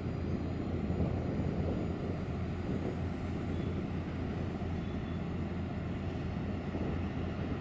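Steady aircraft engine noise, an even roar with a low hum underneath.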